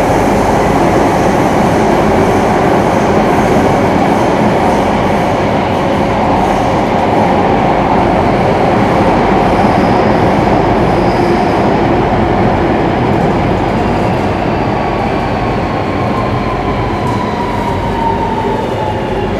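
Singapore MRT electric train running through a tunnel, a steady loud rumble of wheels and track. Over the last few seconds the traction motors' whine slides down in pitch as the train slows.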